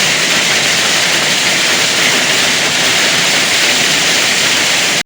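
Loud, steady rushing hiss of strong storm wind, a whirlwind gusting over the microphone, with no breaks.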